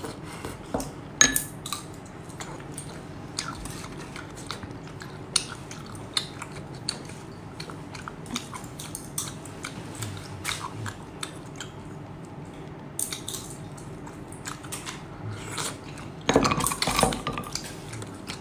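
Close-up chewing and wet mouth noises of a person eating sea snails in chili sauce, with many small sharp clicks of shells and handling. A louder cluster of these noises comes near the end.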